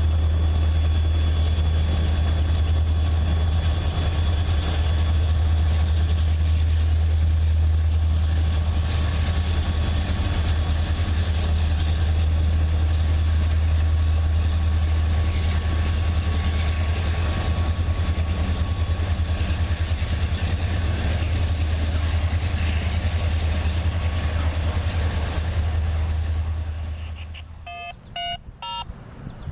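Diesel locomotive engine idling with a steady low rumble, which cuts off sharply about two seconds before the end. A few short chirps follow.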